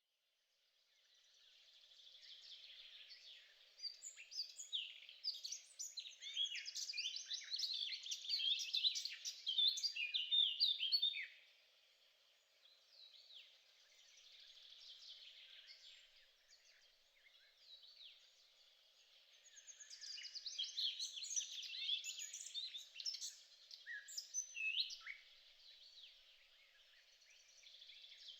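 A chorus of small birds chirping and singing, many quick overlapping notes that swell in two louder spells, the first one stopping abruptly, over a faint steady low hum.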